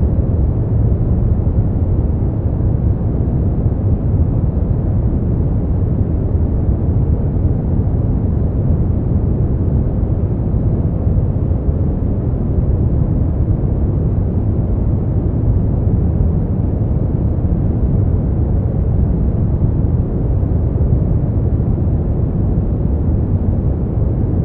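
Steady synthetic sleep-aid noise, unchanging throughout. It is deep and muffled rather than hissy: a low, even rush with little treble.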